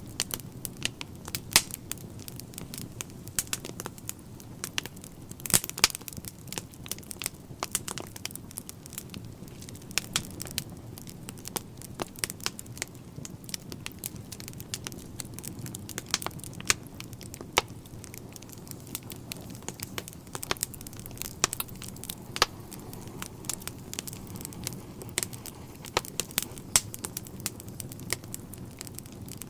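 Wood fire burning in a fireplace, crackling with frequent irregular sharp pops over a low steady rumble of the flames.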